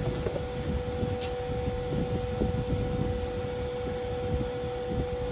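Steady background hum with two pitched tones over a low rumble, and a few faint clicks from handling the metal parts of a cut-open refrigerator compressor.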